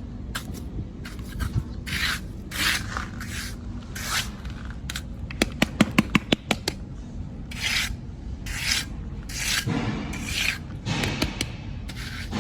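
Repeated rough scraping and rubbing strokes, each under half a second, with a quick run of about eight sharp clicks near the middle.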